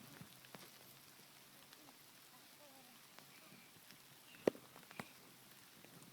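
Faint steady patter of rain, with two sharp knocks about half a second apart, a little past the middle.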